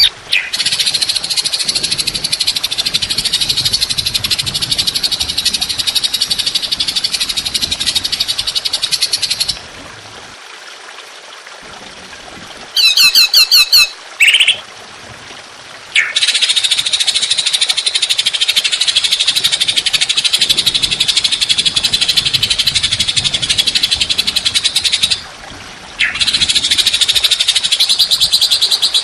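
Songbird song from a masteran training track: long, rough, rapid rattling trills ('tembakan'), each held for several seconds, with short quiet gaps. About a third of the way in, a brief burst of sharp, separate whistled notes breaks the trilling.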